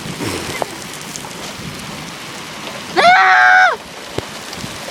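Steady rain falling, with one loud, high-pitched held shout of under a second about three seconds in.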